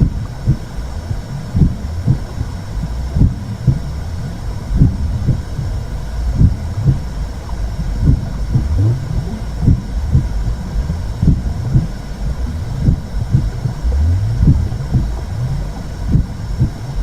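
Womb sound for soothing a baby: a deep, steady whooshing rumble with a slow heartbeat over it, a double thump about every second and a half.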